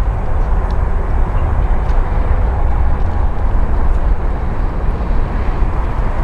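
Airbus A321neo's jet engines at takeoff thrust: a steady, loud, low rumble.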